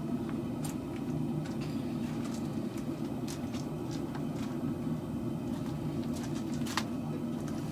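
Steady low roar of a gas forge's burner, with a few faint clicks.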